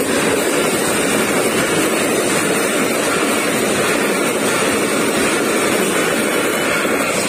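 Pakistan Railways passenger coaches rolling past at close range: a loud, steady rumble and rush of steel wheels on the rails.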